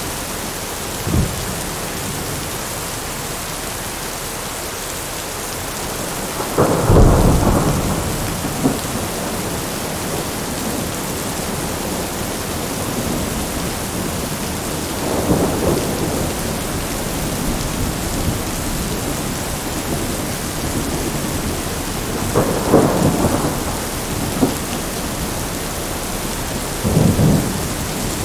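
Steady rain with rolling thunder. There is a short thump about a second in and the loudest clap and rumble about seven seconds in, followed by three smaller rumbles later.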